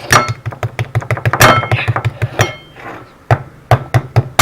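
A table knife knocking and clinking against a plate while spreading margarine on a waffle: a quick run of sharp knocks, several a second, with a few ringing clinks.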